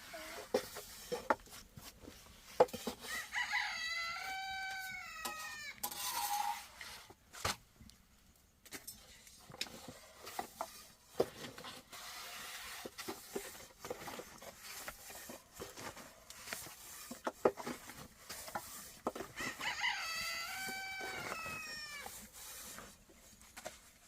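A rooster crowing twice, once about four seconds in and again about twenty seconds in, each crow a drawn-out call of about two seconds. Scattered sharp clicks and knocks run throughout, a few of them louder than the crows.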